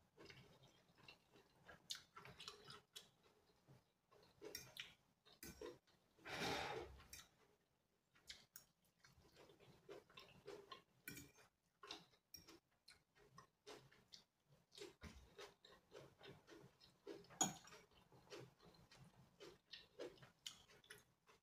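Quiet, close chewing and small mouth clicks of someone eating noodles, with light fork taps on the plate. A louder rushing sound about a second long comes around six seconds in, and a sharp click a few seconds before the end.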